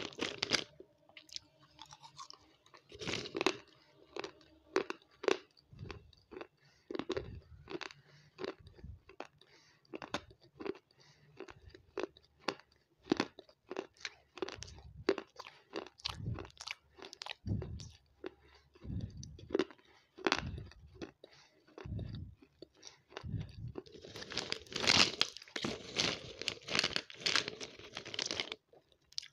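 Close-miked crunching and chewing of a dry, crumbly food, in many separate sharp crunches with short gaps, becoming denser and louder near the end.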